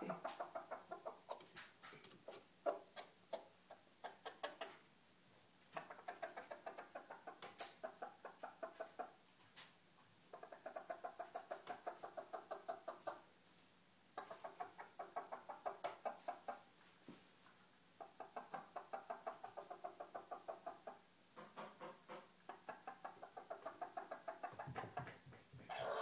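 Bantam chicken making runs of rapid, clipped clucks, about seven a second, in bursts of about three seconds separated by short pauses. Sharp clicks come in the first few seconds. These are the odd repeated noises the owner calls his tics.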